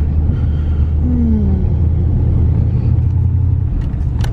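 Steady low rumble of a lifted pickup truck's engine and tyres heard from inside the cab while driving. A short falling tone sounds about a second in, and a sharp click comes near the end.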